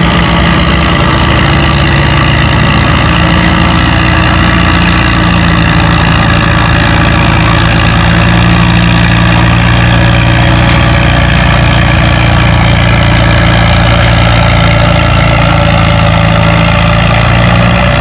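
Farmall M tractor's four-cylinder engine running steadily under load while pulling a weighted sled, holding a constant pitch throughout.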